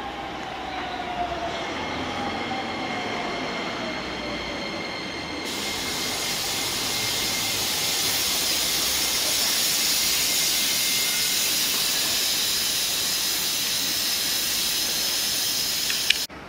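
Keisei 3000-series electric train running on the rails: a falling motor whine early on, then from about five seconds in louder steady wheel-and-rail noise with a high hiss and thin whistling tones. The sound cuts off abruptly near the end.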